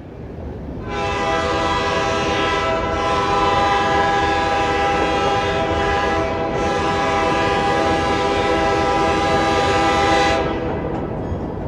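Train horn blowing one long steady chord for about nine seconds over the rumble of a passing train, with two brief dips; the horn cuts off near the end while the train's rumble carries on.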